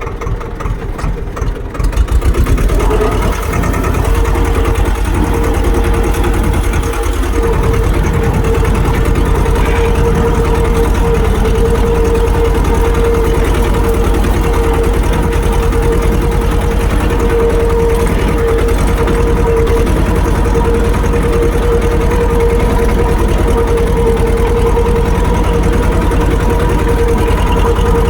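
Tractor engine running steadily, stepping up to a louder, fuller note about two seconds in and then holding it.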